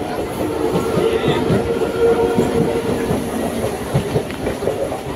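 Electric local train (EMU) pulling out of the platform, its wheels clattering over the rail joints with many short knocks over a steady hum, easing slightly toward the end as the last coaches go by.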